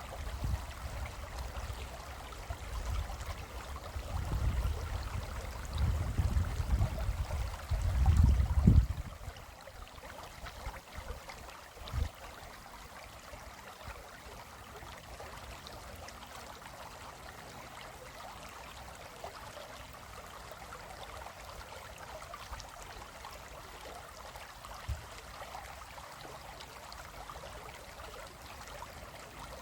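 Small stream flowing steadily over rocks. For the first nine seconds a low rumble comes and goes underneath, loudest around eight seconds, then stops; a single dull thump follows about twelve seconds in.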